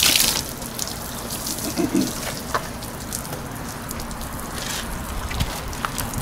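Water running and splashing during a hand car wash, with a short gush right at the start and scattered drips and ticks after it.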